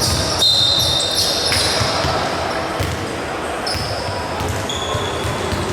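Basketball game on an indoor court: a ball bouncing in repeated thuds and sneakers squeaking in short high chirps, over a murmur of crowd voices in a large hall.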